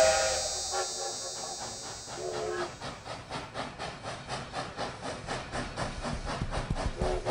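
Toy steam locomotive running with its electronic chugging sound, an even chuff of several puffs a second that grows louder, broken by short whistle toots at the start, about two seconds in and near the end.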